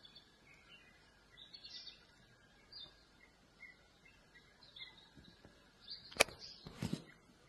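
Faint birds chirping now and then in the open bush. About six seconds in there is a sharp click, the loudest sound, followed at once by a short bump.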